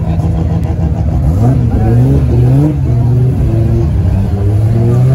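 A modified car's engine revving, its pitch climbing and easing back several times over a steady low engine note.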